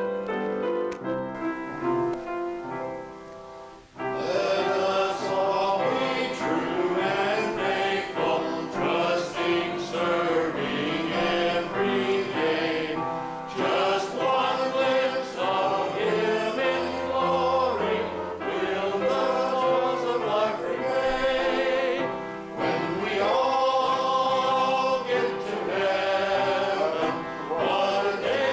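A hymn with keyboard accompaniment: a few seconds of keyboard introduction, then voices come in about four seconds in and sing the hymn with the accompaniment.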